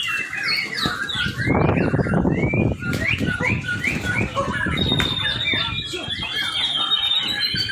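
Young white-rumped shama singing: a string of quick chirps that rise and fall, then a long wavering whistle from about five seconds in, with a short stretch of rustling noise about two seconds in.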